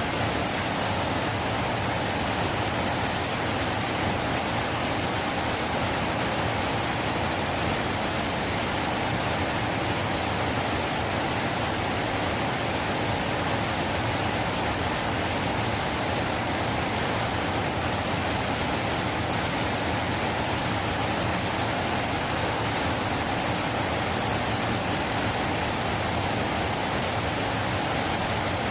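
River water flowing: a steady, even rush with no change in level.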